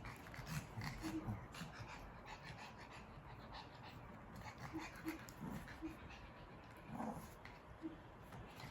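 Small dogs panting and making short, soft low noises, with a few light knocks.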